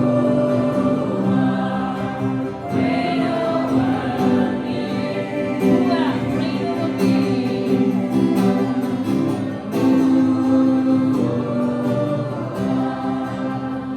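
Live worship music: a group of voices singing together over acoustic guitar.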